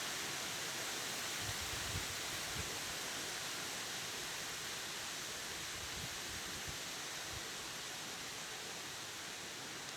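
Strong wind rushing through trees as a steady hiss of rustling leaves, with soft low gusts buffeting the microphone.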